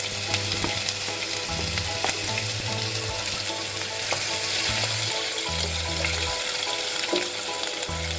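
Chopped garlic and ginger frying in hot coconut oil with mustard seeds: a steady sizzle with many small crackling pops.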